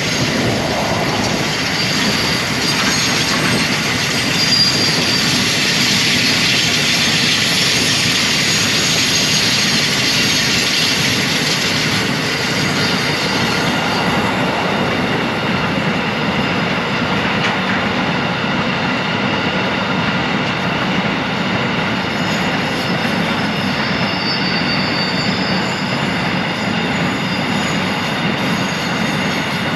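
Narrow-gauge freight train wagons, covered hoppers then tank wagons, rolling past steadily with the wheels running on the rails. Several steady high-pitched squealing tones ride over the rolling noise, plainest in the second half.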